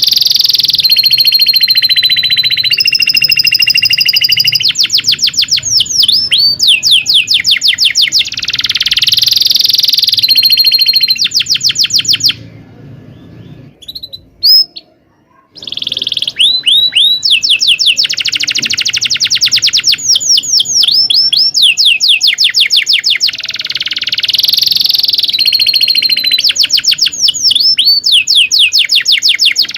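Domestic canary singing a long song of rapid rolling trills, repeated 'cuit cuit' chirps and a few held whistled notes. About halfway through it pauses for roughly three seconds, breaking the pause with one short chirp, then carries on.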